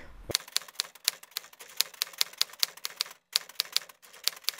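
Typewriter sound effect: keys clacking in a quick, uneven run, with a short break about three seconds in, then stopping abruptly.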